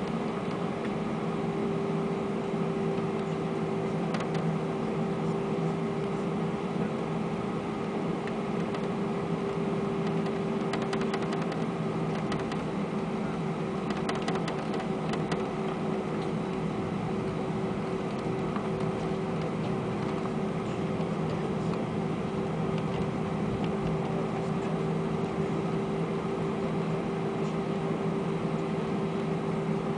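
Airbus A320 cabin hum heard from inside: the jet engines at low power and the air conditioning running steadily, with a constant mid-pitched tone over a low drone. A few faint ticks come in about a third and halfway through.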